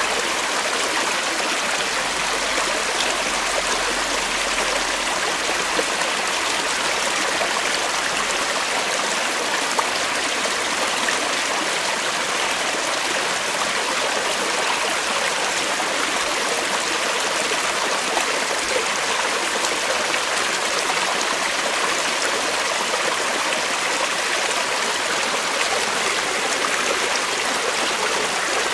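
Creek water flowing steadily over rocks, a continuous rushing and burbling.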